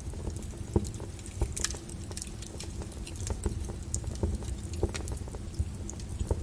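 Wood fire crackling with irregular sharp pops over a steady patter of rain.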